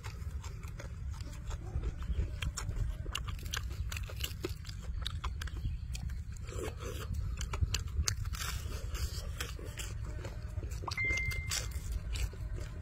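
Close-up chewing and biting of crispy deep-fried chicken: quick crunches and wet mouth smacks, over a steady low rumble. A brief high whistle-like tone sounds about eleven seconds in.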